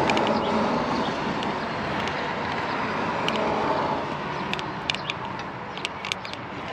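Steady vehicle noise with a run of sharp clicks and ticks in the second half.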